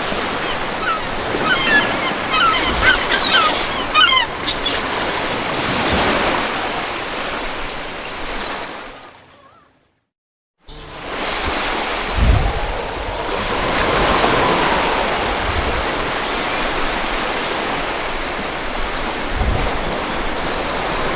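Steady rushing water, like surf, with birds chirping over it in the first few seconds. The sound fades out to silence just before the middle, then a fresh bed of rushing water starts abruptly and runs on steadily.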